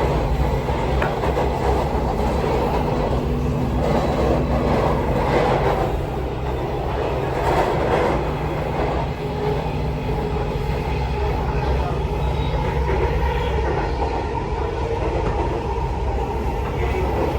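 Delhi Metro train running between stations, heard from inside the carriage: a steady low hum from the motors with a continuous rumble of the wheels on the rails.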